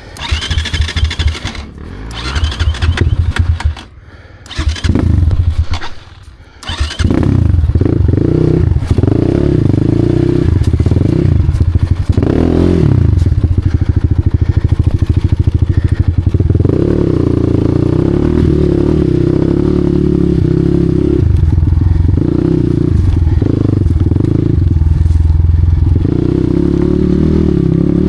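Off-road enduro motorcycle engine, revved in three short bursts with drops between them, then running continuously under throttle, its revs rising and falling as it is ridden.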